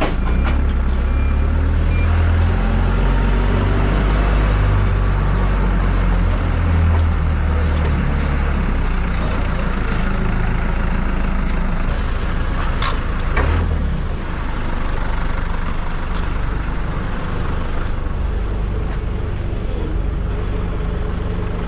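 Farm loader's engine running, a steady low rumble that is strongest in the first half, with a couple of sharp knocks about halfway through.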